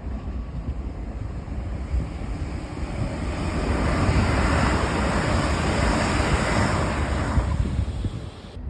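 A train passing at speed, a rushing roar that swells to its loudest about halfway through and then fades, with wind buffeting the microphone; it cuts off suddenly just before the end.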